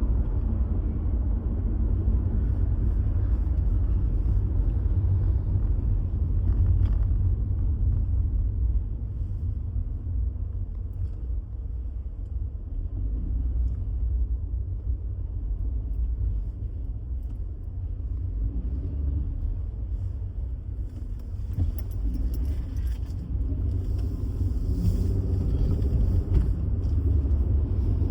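Steady low rumble of a car being driven in traffic: engine and tyre noise on the road.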